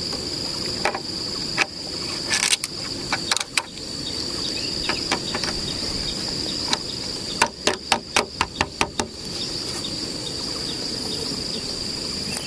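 Steady high-pitched drone of forest insects, with scattered sharp knocks and, a little past the middle, a quick run of about eight knocks in under two seconds.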